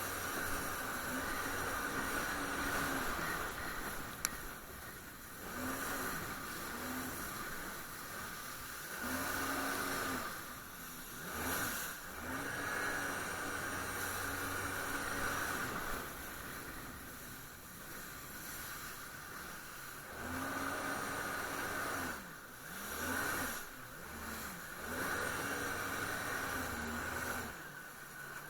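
Jet ski engine running under way. Its note drops and climbs again several times as the throttle is eased and opened, over a steady rush of wind and water.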